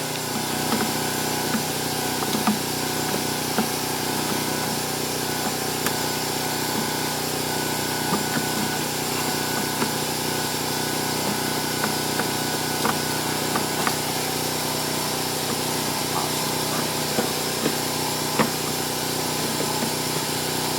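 Steady mechanical drone throughout, with scattered light clicks and knocks of hand tools and parts being fitted.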